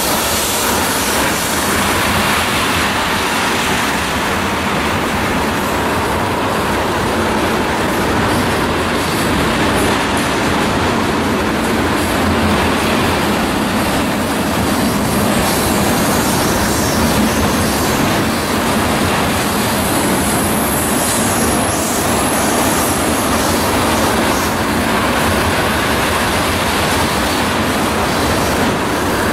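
Freight train of tank cars rolling past: steady noise of steel wheels running on the rails, with a faint high wheel squeal now and then.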